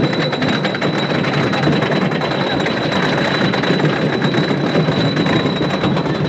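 Wooden roller coaster train running on its track: a loud, continuous rapid clatter with a thin steady whine over it.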